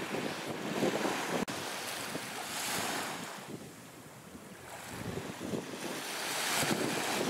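Wind buffeting the microphone over the wash of surf, easing off for a moment in the middle, with one sharp click early on.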